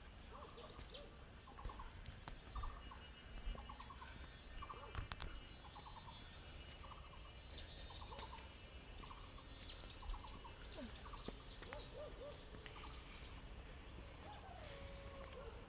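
Birds calling: one bird repeats a short note over and over, about one every 0.7 seconds, over a steady high-pitched drone of insects.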